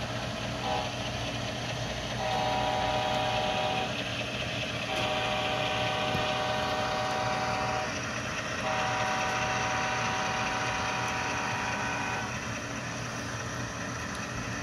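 Sound decoder of a Walthers Mainline GE ES44 model locomotive playing a multi-chime diesel air horn through the model's small speaker: three blasts, the second and third longer than the first. A steady diesel engine sound runs underneath.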